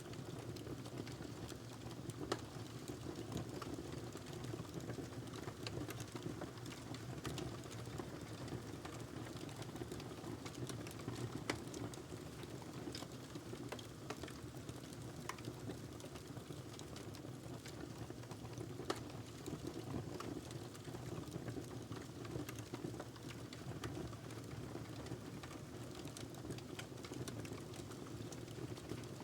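Wood fire burning in a fireplace: a steady low rumble of flames with constant irregular crackling and occasional sharper pops.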